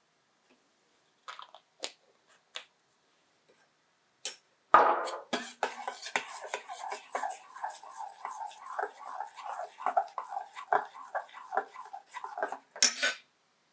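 A thick, wet sauce mixture of coconut cream, garlic and spices being stirred in a pot or bowl: a few light clicks, then a sudden start about five seconds in and a long run of irregular soft, wet strokes, with a louder scrape near the end.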